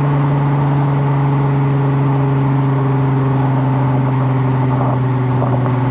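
Lexus RC 350's V6 engine through a muffler-delete axle-back exhaust, driving at a steady engine speed with a constant low drone.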